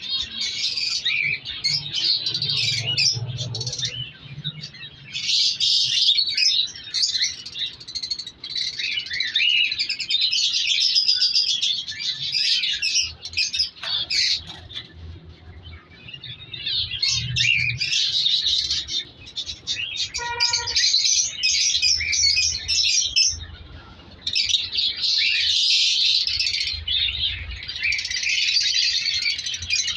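Many caged birds chirping at once in dense, overlapping waves of high twittering, with a few short lulls. One lower call sounds about two-thirds of the way through.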